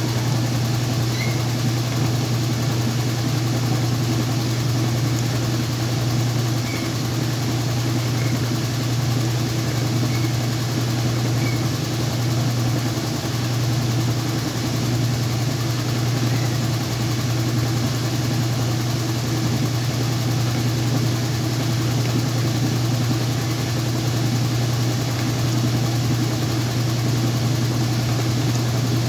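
Whirlpool washing machine running with a steady, even motor hum.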